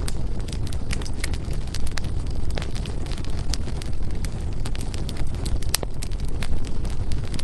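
Wood fire burning in a fireplace: a steady low roar of flames, with sharp, irregular crackles and pops from the burning firewood.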